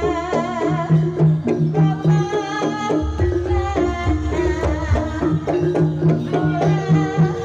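Javanese jaranan gamelan music: kendang hand drums beating a rhythm under sustained gong and metallophone tones, with a female sinden singing a wavering, ornamented melody.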